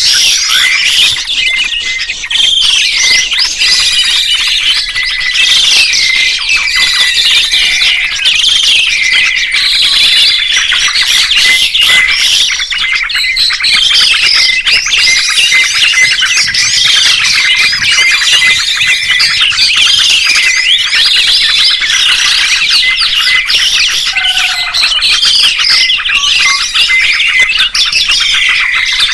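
Songbirds chirping and singing without pause: many rapid, overlapping whistled notes and rising and falling glides.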